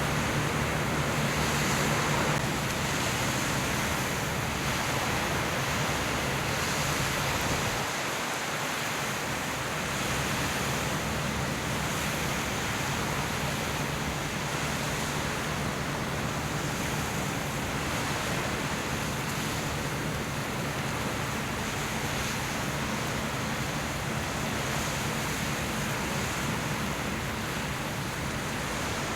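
Steady wind buffeting the microphone over the wash of the sea, with a faint low steady hum underneath.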